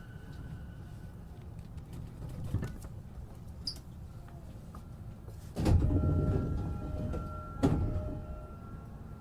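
Inside an E233-7000 series commuter train: a low rumble, then about five and a half seconds in a sudden loud rush of noise with steady tones over it, ending about two seconds later in a sharp knock as the sliding passenger doors shut.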